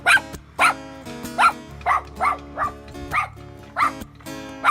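A dog barking repeatedly, about eight short barks at uneven intervals, over background music.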